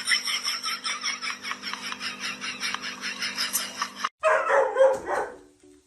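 A dog barking rapidly and repeatedly, about six short barks a second, until it cuts off suddenly about four seconds in. A brief different animal or voice sound follows, then faint music starts near the end.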